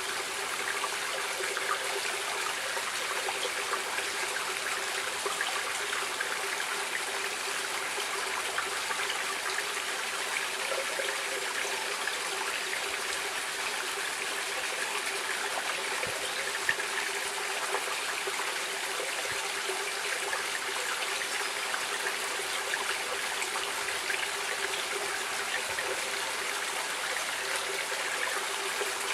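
Stream water running and trickling steadily, an even, unbroken rushing hiss.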